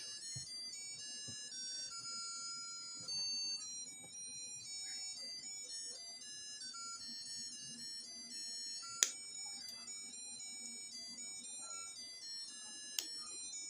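Tinny electronic melody of clean beeping notes stepping from pitch to pitch, like a crystal ball party light's built-in music chip. Two sharp clicks, about nine and thirteen seconds in.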